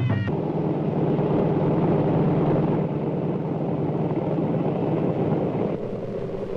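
Drumming music cuts off just after the start, giving way to a steady motor engine drone with a low hum that carries on evenly and eases slightly near the end.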